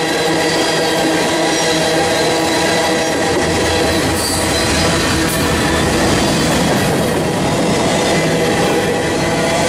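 Freight cars of a mixed manifest train rolling past close by: a loud, steady rumble of steel wheels on rail, with a thin steady squeal from the wheels over it.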